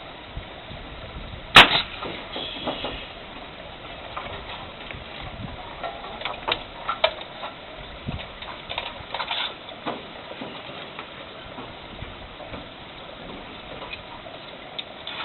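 Irregular knocks and clicks of tools during roof eaves repair work, with one sharp loud crack about a second and a half in and scattered lighter taps later.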